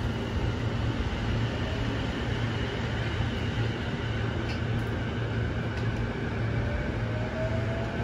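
Running noise of an electric train heard from inside a car: a steady rumble, with a faint whine rising in pitch near the end.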